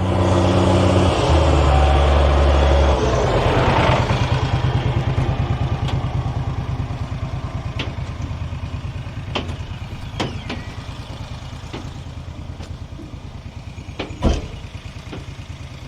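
A vehicle engine running, shifting down in pitch over the first few seconds, then settling into an even low idle that gradually gets quieter. A few sharp clicks follow, with a louder knock near the end.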